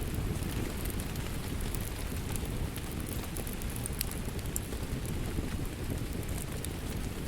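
Wood fire crackling in a fireplace: steady low noise of the flames with scattered sharp pops and snaps.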